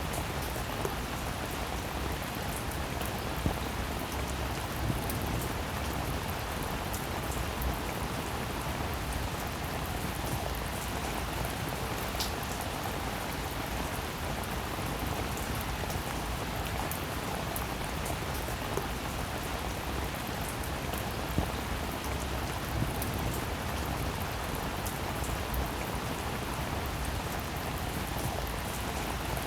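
Steady rain falling, with a few sharper single drop hits standing out here and there.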